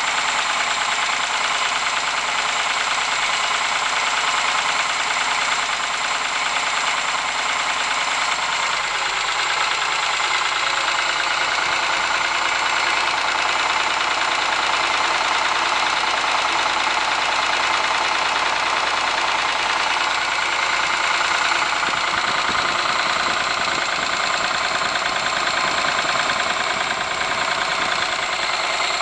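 Ford Sierra engine running steadily with a knock from inside the engine.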